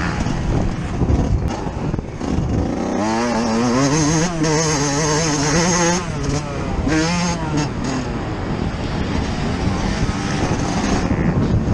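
Yamaha YZ125 single-cylinder two-stroke engine under hard throttle on a motocross track, recorded on board with wind noise. The engine holds high revs for a few seconds, drops off, picks up briefly, then climbs again near the end.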